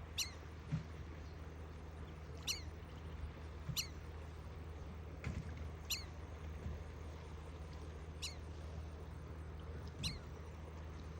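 Ducklings peeping: about six short, high calls, each sliding downward in pitch, a second or two apart. A few soft low thumps fall between them, over a steady low hum.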